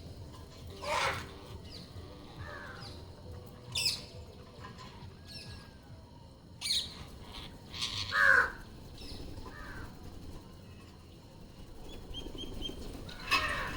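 Green parrots squawking: short, harsh calls, one every few seconds, with the loudest pair about eight seconds in.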